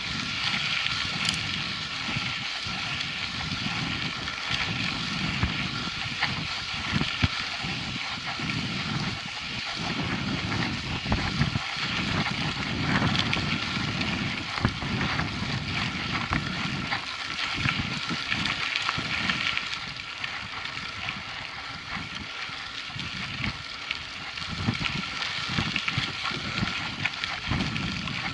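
Mountain bike riding over a rough dirt trail: a steady rush of tyre and wind noise, with frequent small knocks and rattles from the bike and gusts of wind rumbling on the microphone.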